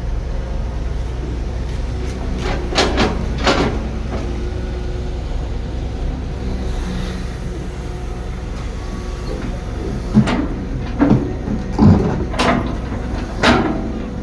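Heavy construction machine's diesel engine running with a steady low rumble, with sharp metallic clanks and knocks: a couple about three seconds in and a quick series of five near the end.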